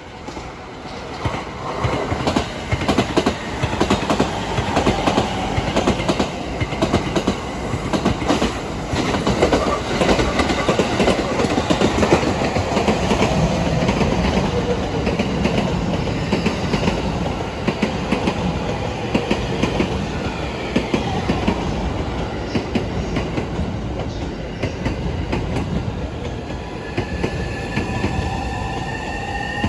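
Electric commuter train running over rail joints on a steel railway bridge, its wheels clattering in a dense run of clicks that builds up about a second in and goes on steadily. Near the end a rising whine comes in.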